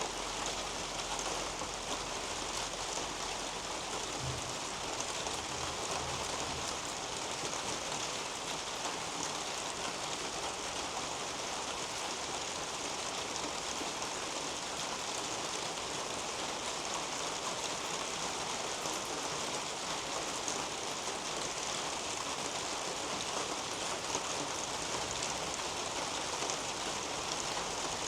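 Steady rain falling on the leaves of a garden canopy: an even, unbroken patter with no let-up.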